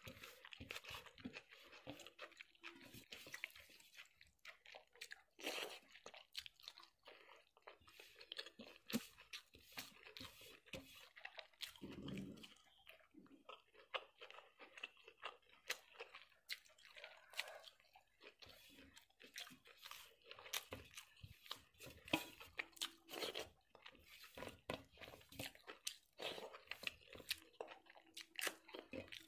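Close-miked chewing and biting of a person eating rice and mutton liver curry by hand, with many small wet clicks and smacks, and crisp bites into raw green chilli. A brief low hum about twelve seconds in.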